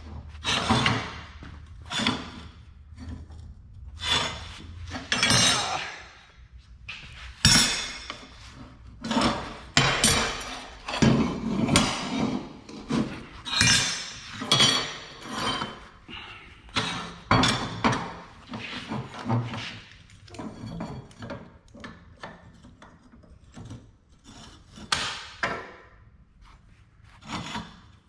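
Scrap steel pieces and old garden-tool parts clanking and knocking as they are handled and set against one another, an irregular run of knocks, some ringing briefly.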